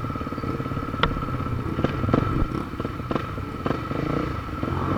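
Motorcycle engine running steadily during a ride, with a few sharp knocks or clicks over it.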